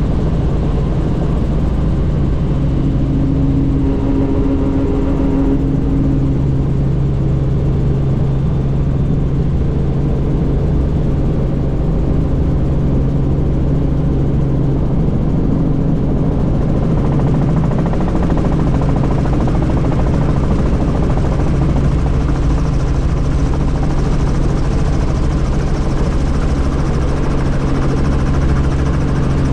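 Helicopter in flight heard on board: a steady, loud drone of rotor and engine with a low hum. The hiss above it grows a little stronger after about 17 seconds.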